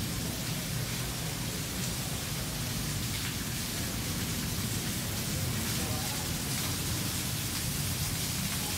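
Steady rain falling on a wet street and leaves: an even, constant hiss with a few faint drop ticks scattered through it.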